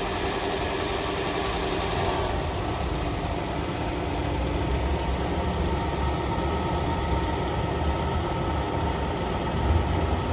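A vehicle engine running steadily at idle, a constant low hum with a little less high-pitched noise from about two seconds in.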